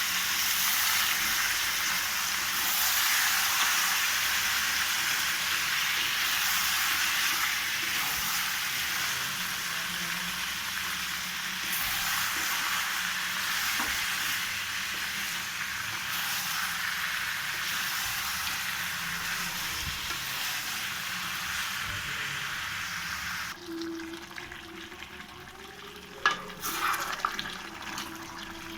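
Chicken curry sizzling as it fries in a pan, a steady hiss that dies down near the end, followed by a sharp knock.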